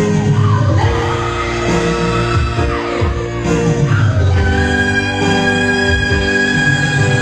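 Live band playing a rock ballad with electric guitar, in a large hall; a long high note is held from about halfway through.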